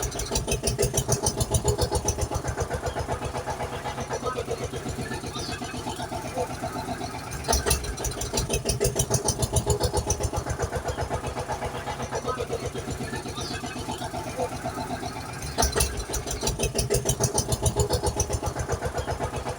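Looped engine sound effect: a fast, even putter that starts over about every eight seconds, each time opening with a louder burst like an engine starting.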